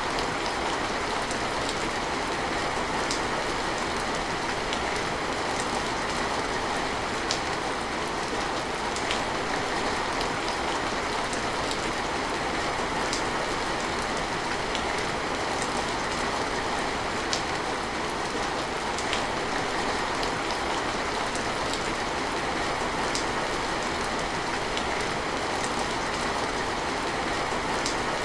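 Steady rain falling, an even hiss with occasional sharper drops ticking every second or two.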